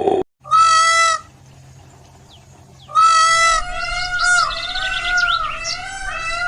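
Bird calls: one short, loud, clearly pitched call about half a second in, then from about three seconds a run of wavering pitched calls with quick chirps over them.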